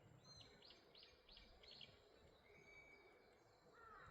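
Faint bird song: a quick run of about five high, repeated chirping notes, then a single held whistled note, over quiet outdoor background.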